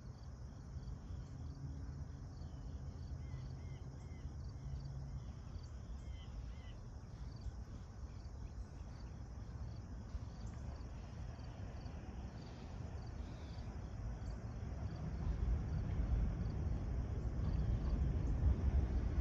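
Insects chirping in a steady, evenly repeating pattern, with a few short high chirps early on, over a low rumble. The rumble grows louder in the last few seconds as the train approaches along the track.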